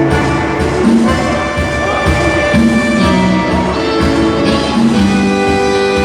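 A live band playing a rancheira for dancing: held melody notes over a steady beat.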